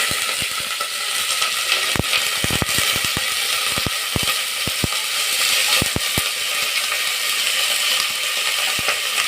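Freshly added vegetables, potatoes among them, sizzling in hot oil with a steady hiss, with scattered clicks of stirring.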